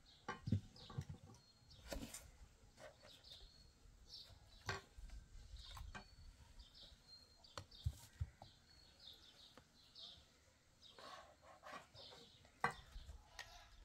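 Small birds chirping in short, high notes, faint, with a few sharp knocks scattered among them.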